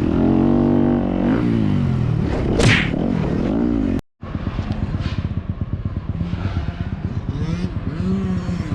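Dirt bike's single-cylinder four-stroke engine (a Yamaha YZ250FX) revving on a motocross track, its pitch rising and falling with the throttle, with a short hiss about two and a half seconds in. The sound cuts out for a moment about four seconds in, then the engine runs on with fast, even firing pulses as the revs swell and drop.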